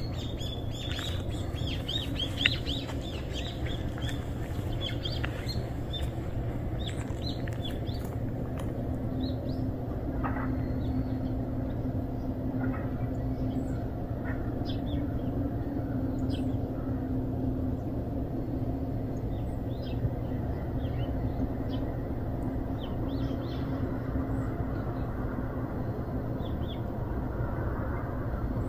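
Small birds chirping off and on over a steady low outdoor hum, with one sharp tick about two seconds in.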